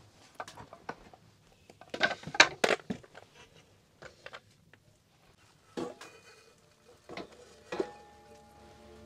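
A series of sudden knocks and clatters, like hard objects or utensils being handled, loudest in a cluster about two to three seconds in. Music comes in near the end.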